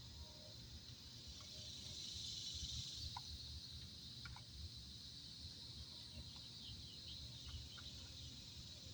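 Faint insects trilling steadily, swelling a little about two seconds in, with a few short faint chirps and a low rumble of wind on the microphone; the mower engine is not running.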